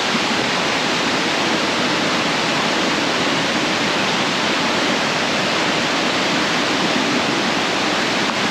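Waterfall cascading, a steady, loud rush of falling water.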